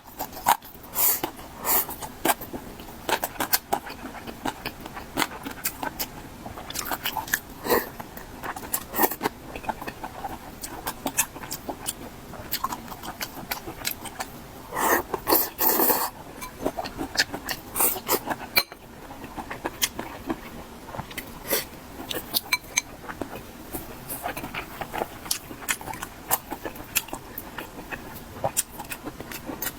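Close-miked mouth sounds of chewing and crunching a spicy stir-fry (mala xiang guo): many short wet clicks and smacks, with a louder, denser run about halfway through.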